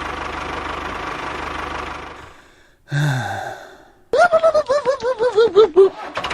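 A small motor running steadily, fading out about two seconds in. Then a short low voice-like sound falling in pitch, and a quick run of about a dozen squeaky chirps, each a little lower than the last.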